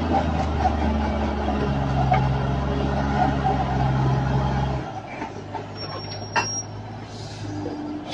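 Heavy truck engine running steadily, dropping away sharply about five seconds in, with a single sharp click a little later.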